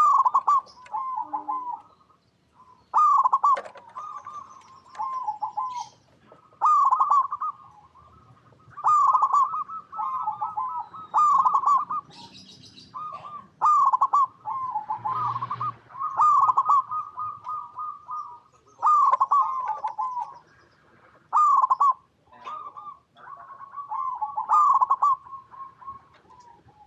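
Zebra dove (perkutut) singing: phrases of quick, rolling coos repeated every one to two seconds.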